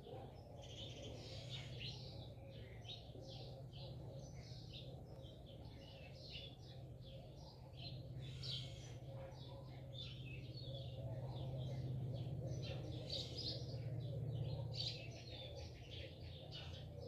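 Small birds chirping: many short, high chirps in quick succession, over a low steady hum.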